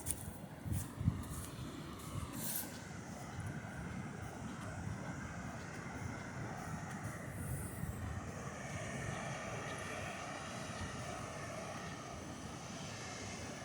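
A steady distant engine drone, with a few faint low thumps in the first two seconds.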